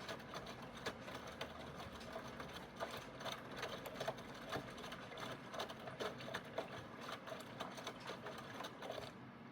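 Aidoo 1 kg mini washing machine agitating during its rinse: the direct-drive motor turns the pulsator with a steady hum and a fast rattling clatter. It stops shortly before the end as the stroke ends.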